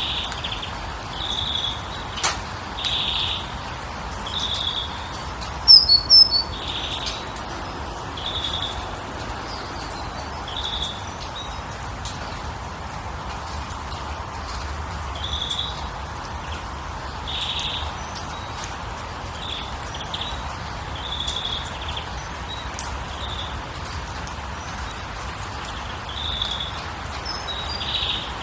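Birds calling, a short call repeated every second or two over a steady hiss, with a louder burst of high chirps about six seconds in.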